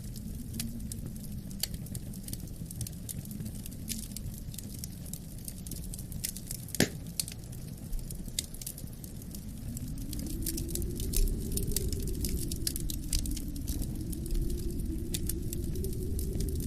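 Wood fire crackling with scattered sharp pops and snaps, over a steady low wind rumble that swells about ten seconds in. The snaps come thicker in the second half.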